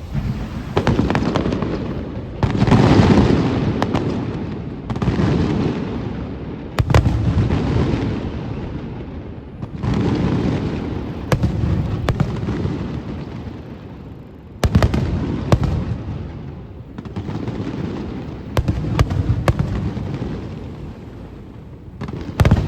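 Aerial firework shells bursting one after another, one about every two to three seconds. Each burst is a deep boom that rolls on and fades, with sharp cracks between them.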